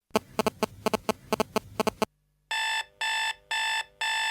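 Electronic alarm beeping. It starts with a quick, irregular run of short sharp beeps, stops briefly, then about two and a half seconds in settles into steady, evenly spaced buzzy beeps, about two a second.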